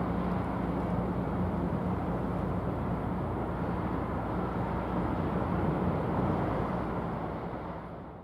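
Steady low drone of a large ship's engines and machinery with a constant hum, fading out near the end.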